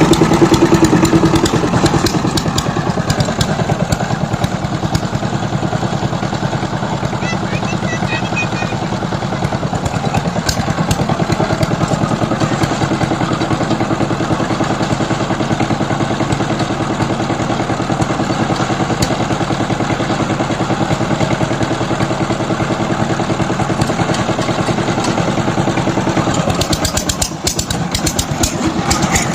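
Power tiller engine running steadily with an even, rapid firing beat. It is a little louder at first, dips briefly near the end, then picks up again.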